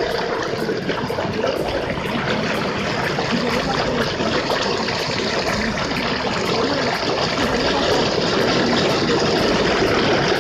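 Steady rushing noise of a flooded road: water flowing and vehicle traffic running through it.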